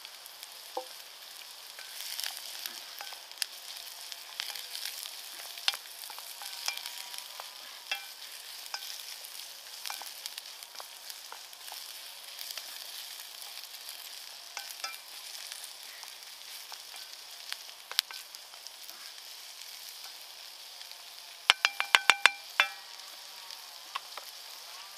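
Onions and vegetables sizzling in butter in a small coated metal pan over campfire embers, stirred, with scattered crackles and clicks. Near the end comes a quick run of about half a dozen ringing metal knocks.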